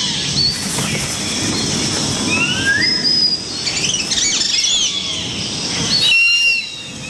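Bird calls: repeated rising whistled notes and chirps over a steady rustling background.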